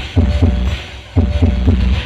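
Loud, bass-heavy electronic music from a large sound system under test, with a run of deep drum hits that sweep down in pitch and a short dip in loudness about a second in.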